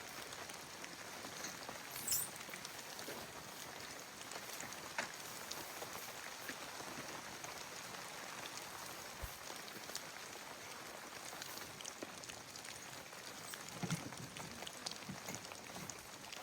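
Steady light rain pattering on a surface, with scattered small drips and ticks and a few louder taps.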